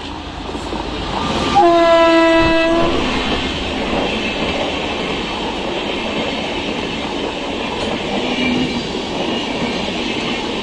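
WAP-5 electric locomotive sounding its horn in one blast of about a second, a second and a half in, as it runs through the station at speed. Then the steady wheel noise and clickety-clack of its passenger coaches passing close by.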